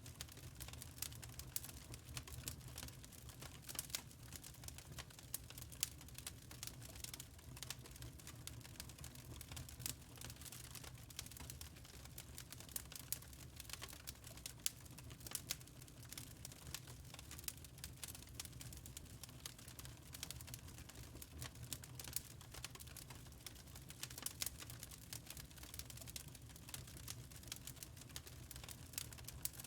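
Wood fire in a fireplace crackling: irregular, quick sharp pops over a low steady rumble of the flames.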